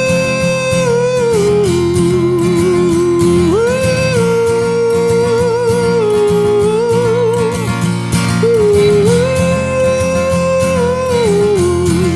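Instrumental break in an acoustic country song: a Seagull acoustic guitar strumming steadily under a lead melody of long held notes that waver with vibrato and slide between pitches.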